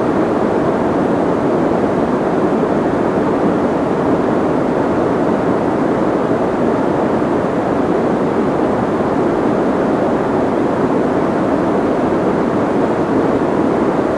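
Soft white noise: a steady, muffled rush of noise with little high hiss, unchanging in level.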